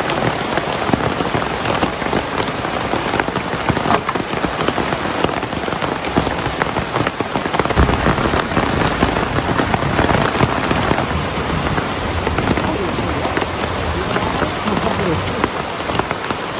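Heavy rain falling steadily, a dense patter of many drops. There is a low thump about eight seconds in.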